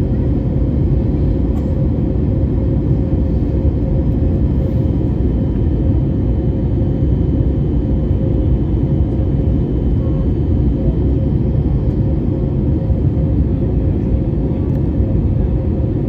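Jet engine and airflow noise inside a Boeing airliner's cabin during landing: a loud, steady low rumble with a constant hum tone over it.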